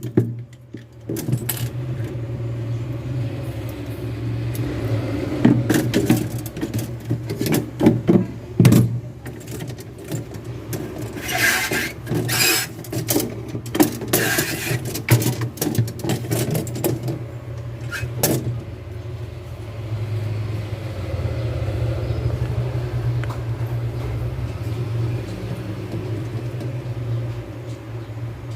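Metal clinking and knocking from hand tools and tubing being worked, over a steady low hum, with two short hissing bursts about halfway through.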